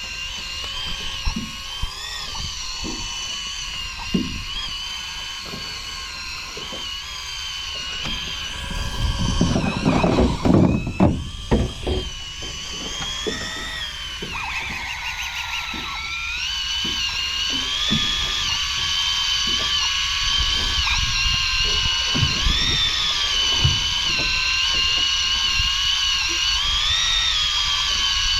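Electric fishing reel motor whining steadily as it winds in a jig, its pitch dipping and rising as the load changes. There is a burst of knocking and rustling around ten seconds in.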